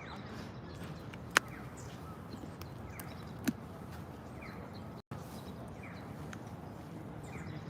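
Outdoor park ambience: a steady background hum with faint bird chirps scattered through it. Two sharp clicks stand out, one about a second and a half in and another about two seconds later, and the sound cuts out for an instant around the middle.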